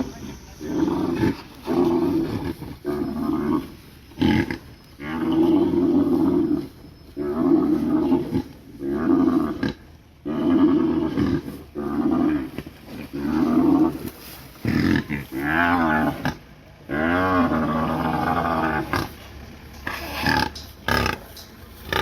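Greater one-horned rhinos calling loudly while fighting: a long run of rough, roaring calls, each about a second long, one after another. A few calls about two-thirds of the way through have a wavering pitch.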